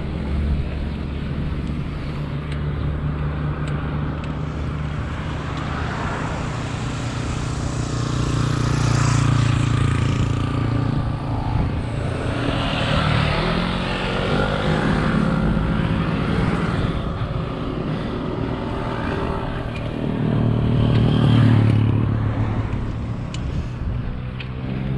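A motor vehicle's engine running close by on the road, its pitch shifting in the middle and swelling louder twice, over road and wind noise.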